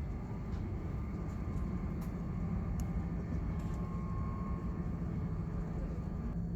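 Steady low rumble of a Shinkansen bullet train running at speed, heard from inside the passenger car, with a faint high whine over it.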